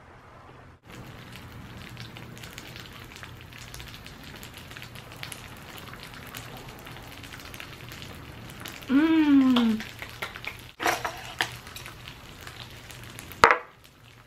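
Chicken and cheese frying on an electric griddle: a steady sizzling hiss. About nine seconds in a drawn-out hummed voice sound rises over it, and there is a sharp click near the end.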